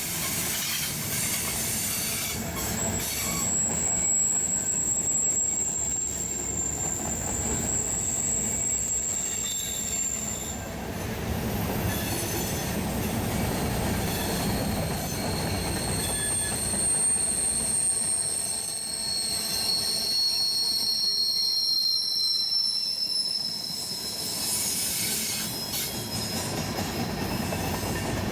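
Railroad cars rolling past with a steady low rumble, their steel wheels squealing against the rails in long, high-pitched tones. The squeal runs from about two seconds in to about ten, then returns at two pitches from about fourteen seconds to twenty-three.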